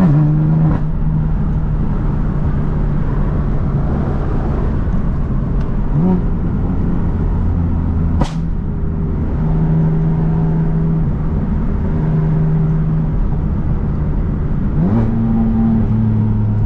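BMW F80 M3's tuned twin-turbo inline-six, fitted with an aftermarket downpipe and single mid pipe, running while being driven at light throttle. The engine note holds steady and steps in pitch a few times, then rises near the end, with one sharp crack a little past the middle.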